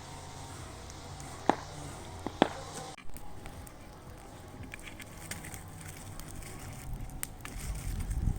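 Wood bonfire crackling, with scattered small pops and two sharper cracks in the first few seconds.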